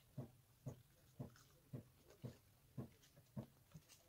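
Faint, rhythmic chewing of fried chicken: soft, wet mouth smacks about twice a second.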